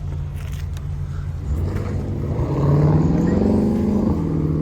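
Car engine running steadily, then revved about one and a half seconds in: the pitch rises, holds briefly and falls back about four seconds in.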